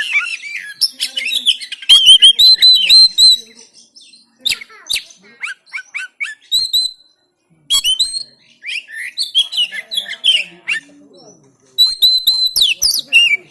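Oriental magpie-robin singing loudly in bursts of rapid repeated whistled notes mixed with sweeping calls, the phrases broken by short pauses.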